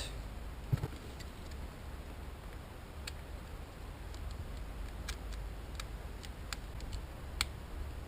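Faint, irregular light clicks, about a dozen scattered through, over a low steady hum; one click near the end is the loudest.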